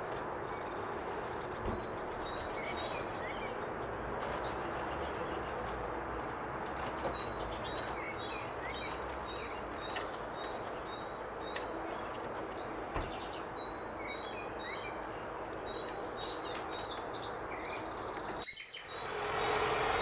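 Short, high bird chirps in repeated runs over a steady background noise. Near the end the background briefly drops out and comes back louder.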